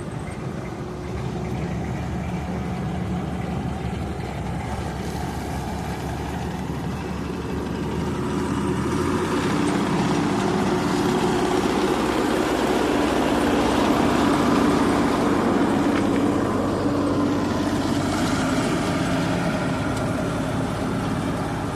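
Heavy diesel engine of road-construction machinery running steadily. It grows louder from about eight seconds in and eases off a little near the end.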